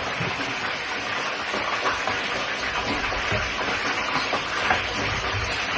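Fish frying in hot oil in a pan: a steady crackling sizzle.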